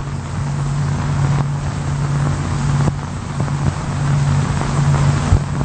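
A steady, low mechanical drone, engine-like, with an even hiss over it.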